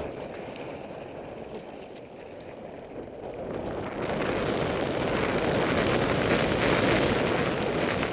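Mountain-bike ride noise: wind rushing over the microphone and tyres rolling on a dirt trail, growing louder about four seconds in as the bike picks up speed.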